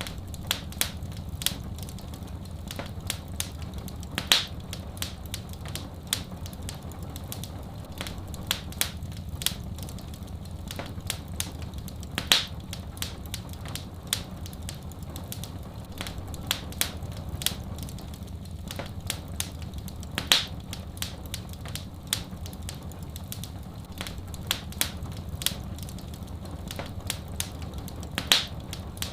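Wood fire crackling: a steady stream of irregular sharp crackles, with a louder pop about every eight seconds, over a steady low rumble.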